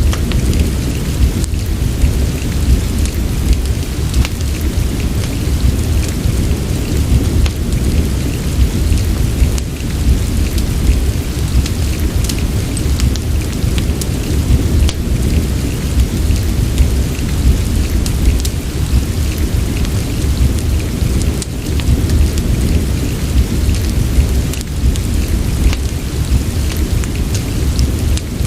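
Steady rain mixed with a fireplace, over a deep, continuous low rumble, with scattered sharp crackles and drop ticks throughout.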